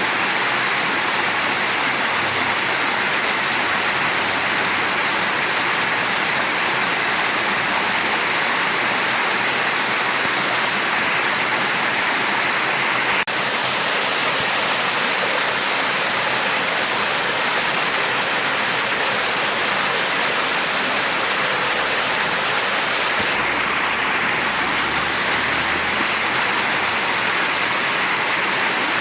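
Mountain stream flowing, a steady, unbroken rush of water, with a single faint click about halfway through.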